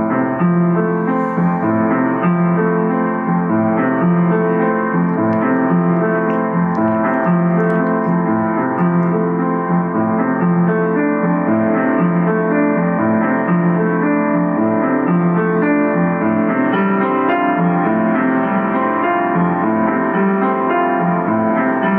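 Improvised piano music, a steady flow of sustained notes and chords.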